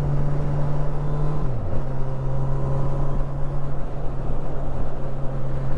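Honda CB1000R's 998 cc inline-four engine running steadily under way at cruising revs. Its note dips briefly about a second and a half in, then settles back to a steady pitch.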